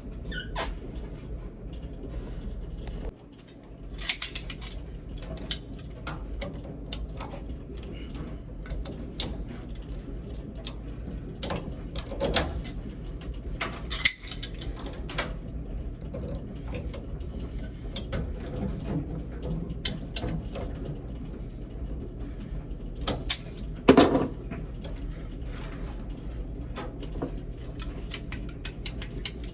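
Scattered clicks, knocks and plastic clatter of hose clamps and hoses being worked loose from a washing machine's water inlet valve, with one louder knock late on, over a steady low hum.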